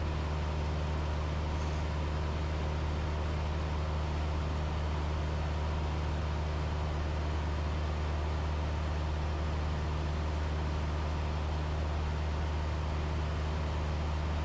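Steady cockpit drone of a Cessna 172 in cruise: the four-cylinder piston engine and propeller running at constant power, a low even hum with air noise over it.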